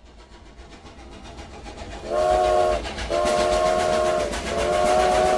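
A train approaching with a regular clattering beat that grows louder, then its chord whistle blows three times from about two seconds in: two short blasts and a long one.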